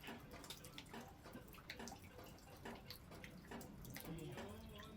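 Faint, irregular small clicks and light taps.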